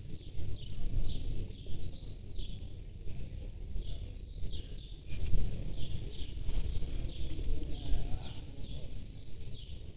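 Birds chirping in quick, repeated short notes over a steady low rumble of outdoor noise.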